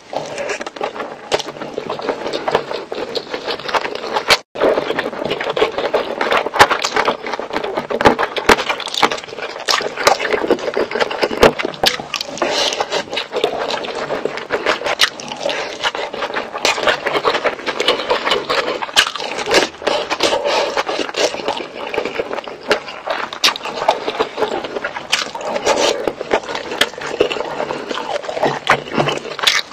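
Close-up eating sounds of rice and chicken curry being eaten by hand: continuous chewing and wet mouth noises dense with small clicks and smacks, broken by a momentary gap about four and a half seconds in.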